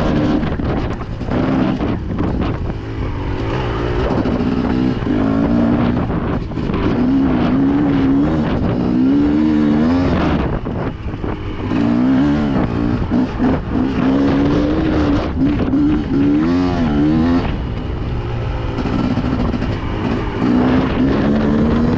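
Dirt bike engine running and revving up and down repeatedly, its pitch rising and falling every second or so.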